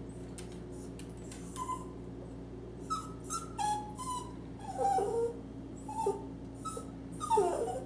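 Dog whining in a series of short, high whimpers, with breathy puffs between them.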